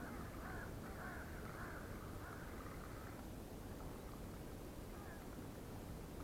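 A bird giving a run of repeated harsh calls that fade out about halfway through, over a steady low background noise.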